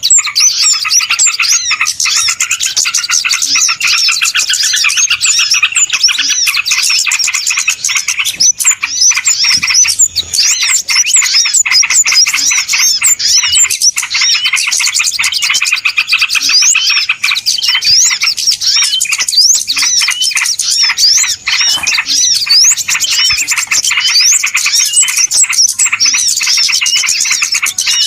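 Dense, unbroken chorus of many small birds chirping and twittering over one another, loud and busy throughout: a bird-lure (pikat) recording of a noisy crowd of birds.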